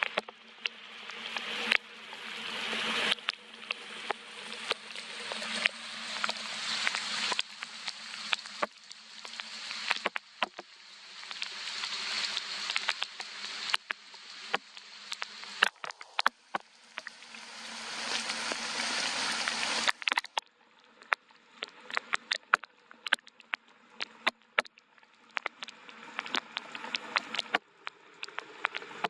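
Rain: a hiss of rainfall swelling and easing in waves, with many close drops ticking and splatting separately. About two-thirds of the way in the hiss drops away, leaving scattered drips.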